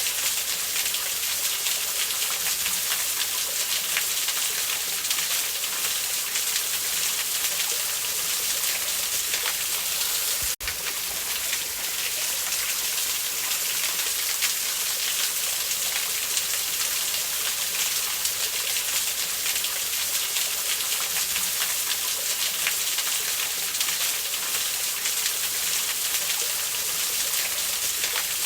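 Steady rushing of a waterfall over a campfire, with faint crackles from the burning wood. The sound drops out briefly about ten seconds in.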